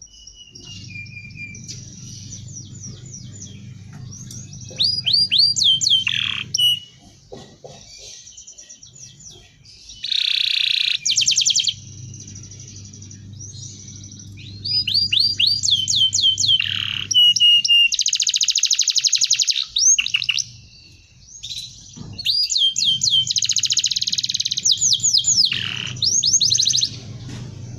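Domestic canary singing in phrases of fast repeated chirps and rapid trills, with short pauses between them. A low hum sits underneath at times.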